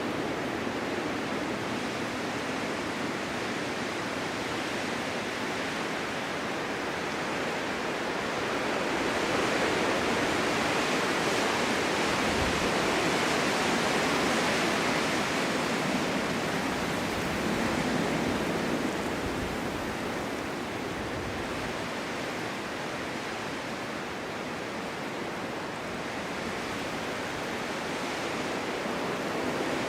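Winter storm wind blowing steadily, swelling into a stronger gust through the middle and then easing back.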